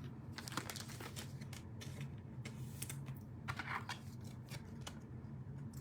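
Faint, scattered clicks and light rustles of trading cards being handled and flipped through, over a low steady hum.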